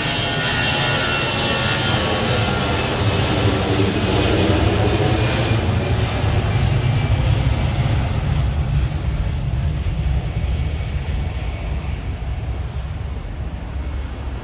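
CFM56 turbofan engines of an Airbus A319 running loud as the jet passes, a heavy low rumble under a high fan whine that is strongest in the first few seconds. The sound fades away over the last few seconds.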